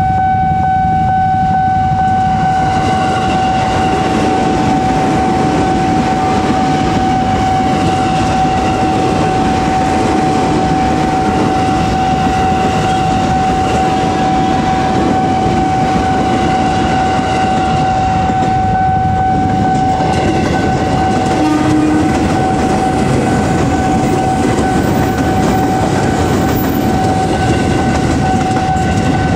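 KRL Commuterline electric multiple-unit train running past over a level crossing, its wheels rumbling and clattering on the rails, starting about two seconds in and carrying on to the end. Under it the level-crossing warning signal sounds one steady tone.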